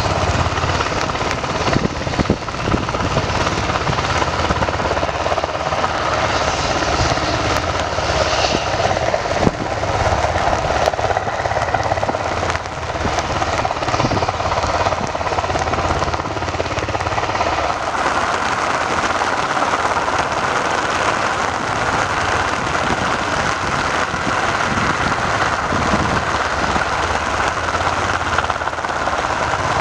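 Helicopter running steadily, a dense turbine and rotor noise with a low rumble. The hiss strengthens a little past halfway.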